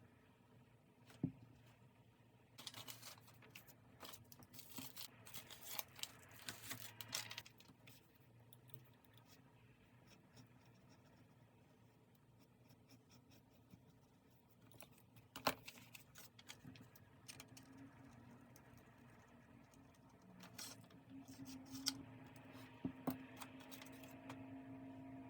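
Paper and stickers being handled on a desk: a few seconds of quick rustling and tearing strokes, with a few sharp taps. A faint steady hum comes in near the end.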